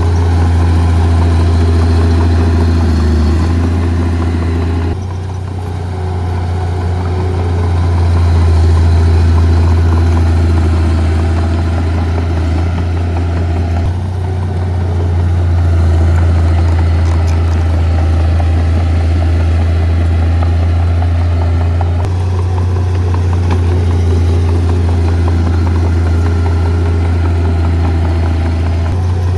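Heavy diesel earthmoving equipment running steadily, a deep engine drone that shifts abruptly about five, fourteen and twenty-two seconds in.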